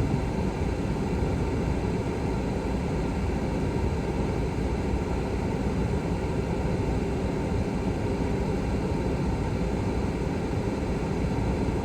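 Truck air conditioning blower running hard inside the cab: a steady, even whooshing noise.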